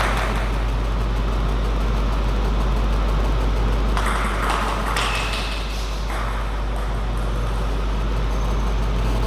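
Steady low hum and background noise of a table tennis hall, with a few brief, indistinct noises around the middle.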